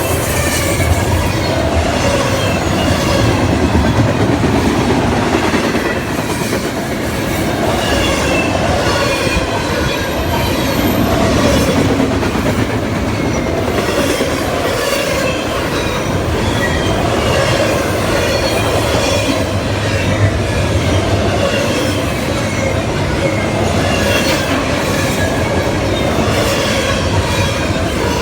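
Norfolk Southern intermodal freight train rolling past close by: a steady, loud rumble of wheels on rail, with repeated clicking over rail joints and some wheel squeal.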